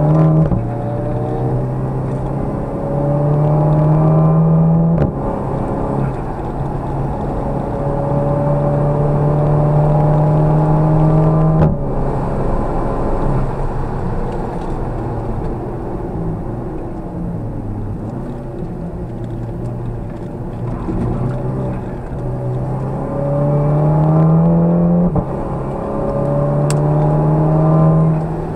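Car engine heard from inside the cabin, pulling hard on a race track with its pitch climbing through the revs. It drops sharply at three upshifts, about five seconds in, about twelve seconds in, and near the end. Between the second and third shifts the revs ease off for a stretch before climbing again.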